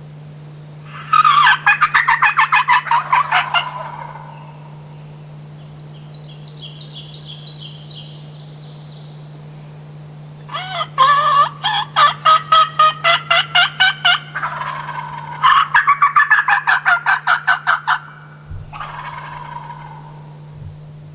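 Wild turkey yelping: three loud runs of evenly spaced, repeated notes at about four a second, each lasting a few seconds, with a fainter, higher run between the first two.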